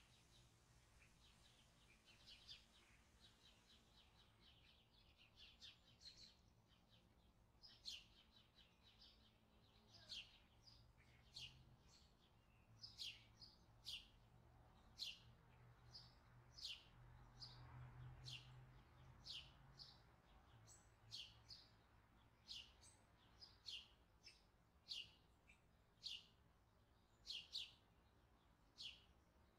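Faint, short, sharply falling chirps of a small bird repeat about once a second over quiet room tone. In the first few seconds they are joined by quick light ticks of a fork beating egg in a ceramic plate.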